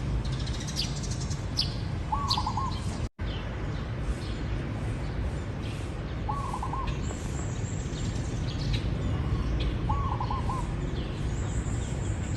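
Zebra dove cooing: three short, rapidly pulsed coo phrases about four seconds apart. Other small birds chirp high and briefly throughout over a steady low background noise.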